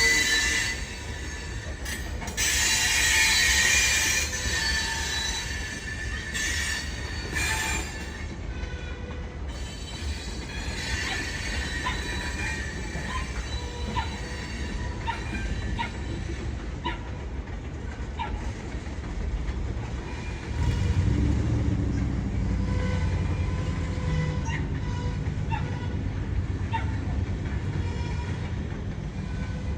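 Loaded gravel train rolling past: steel wheels squeal against the rails in several bursts over the first eight seconds, then the car wheels click regularly over the rail joints. About twenty seconds in, a low engine drone comes in and stays.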